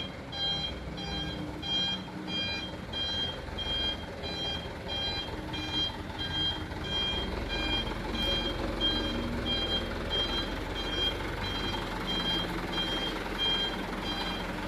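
A truck's reverse alarm beeping steadily, about twice a second, over its engine running as it backs up.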